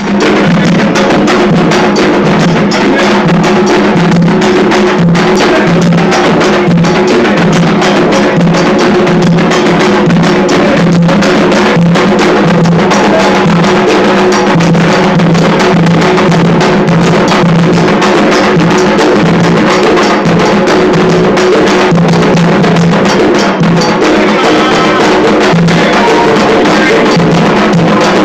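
Loud, continuous Candomblé ceremonial drumming, atabaque hand drums with a bright struck percussion part, playing a dense, steady rhythm.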